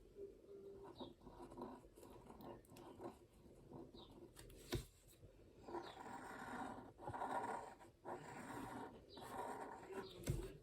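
Fine-liner pen scratching across watercolour paper in short, repeated strokes as it draws sketchy outlines, with a couple of light taps.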